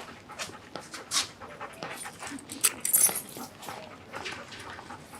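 Working dog panting in quick, irregular breaths, with a few sharper, louder noises about three seconds in.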